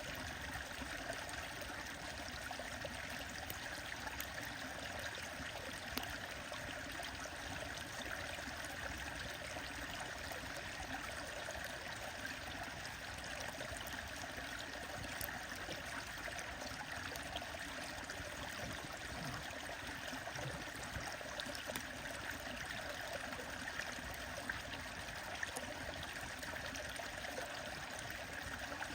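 A stream running steadily, with occasional sharp pops from a crackling wood bonfire.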